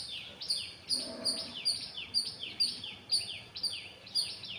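Small birds chirping in rapid repeated calls, each a short note falling in pitch, about two a second.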